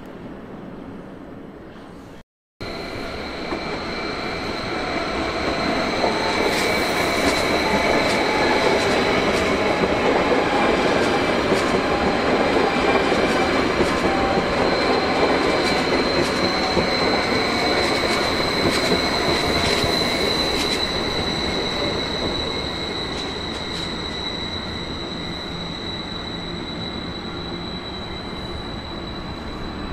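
SBB double-deck electric train running past along the platform, its rumble building up and then easing off, with a steady high-pitched wheel squeal over it.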